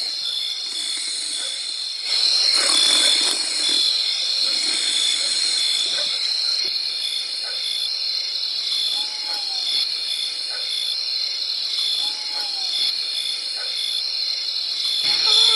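Insects, crickets among them, shrilling steadily with a regular pulsed chirp, and a few short calls that fall in pitch.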